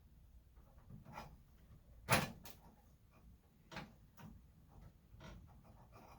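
Scattered light clicks and knocks of car parts and tools being handled during disassembly, the loudest a sharp knock about two seconds in.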